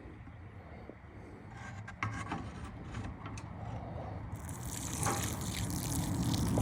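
Scattered knocks and rubbing of a bucket being handled, then from about four seconds in rabbit-manure tea pouring from the bucket onto the soil, a splashing hiss that grows louder.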